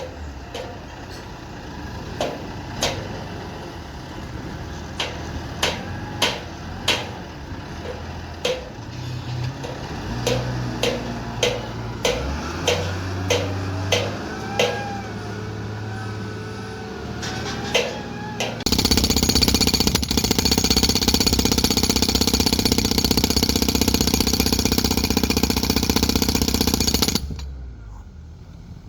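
Construction work: sharp irregular knocks over a low running engine, then a powered hammering machine starts about 19 seconds in and runs loud and fast for about 9 seconds before cutting off sharply.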